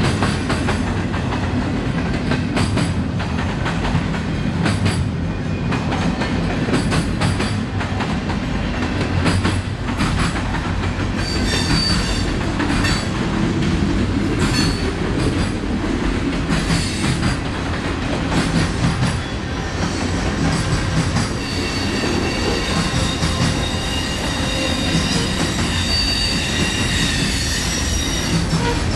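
Railroad cars rolling past on the track, their wheels clicking rhythmically over rail joints. A high-pitched wheel squeal comes and goes midway and again through most of the last third.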